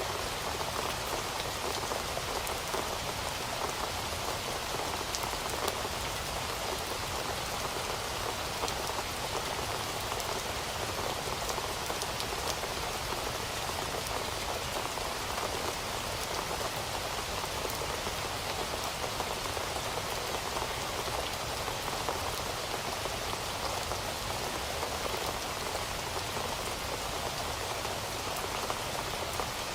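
Heavy rain falling steadily, an even hiss with a dense patter of individual drops hitting a surface.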